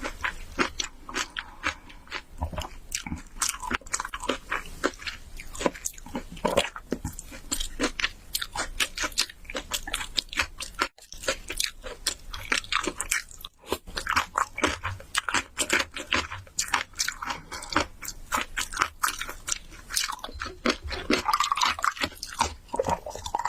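Close-miked eating: a person chewing and biting food, with rapid wet smacks and crisp clicks several times a second, broken by a brief pause about halfway through.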